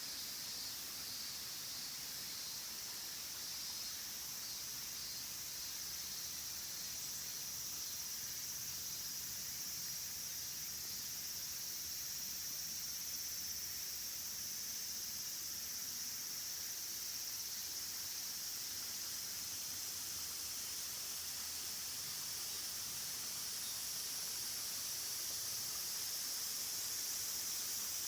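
Steady rushing hiss of a waterfall, with a high, continuous chirring of insects such as crickets over it; the sound grows slightly louder near the end.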